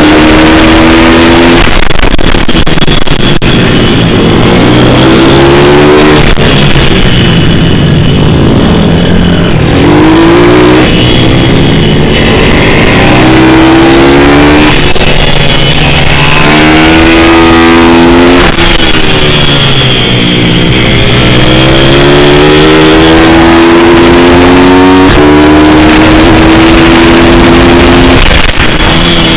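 Pit bike's single-cylinder four-stroke engine revving hard, its pitch climbing again and again and dropping sharply at each gear change, with slower falls as it slows down.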